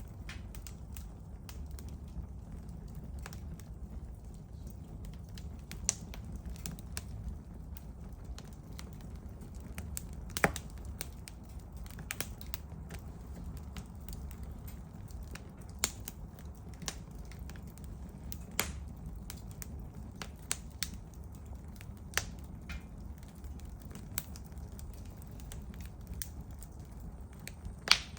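Small wood campfire burning: a low steady rumble of the flames with irregular crackles and sharp pops from the burning firewood, a few louder snaps scattered through.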